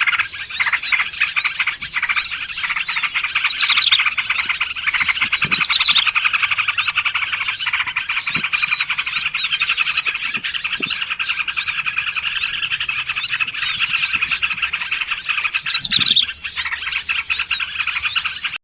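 Dense, unbroken chorus of small songbirds chirping and trilling over each other, several at once: a layered bird-trapping lure mix of small forest birds.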